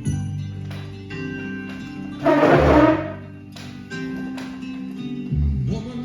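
Instrumental music, the lead-in to a song, played back on an AKAI GX-230D reel-to-reel tape deck. Sustained notes run throughout, with one louder, noisy swell just over two seconds in that fades by three seconds.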